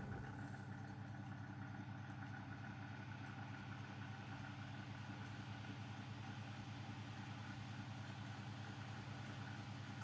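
Zanussi DL22 washing machine running a 90 °C boil wash in its soak phase: a steady low hum.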